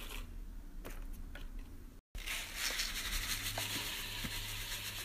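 Quiet kitchen handling noise: a few faint clicks and taps while smoothie ingredients are put into a blender. The sound cuts out completely for a moment about two seconds in, then comes back with a steady low hum and hiss.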